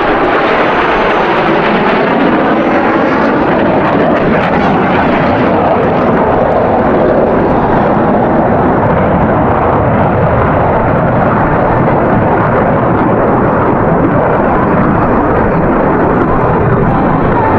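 Jet fighters flying past at high power, a steady loud engine rush with a sweeping pitch shift in the first few seconds as they pass.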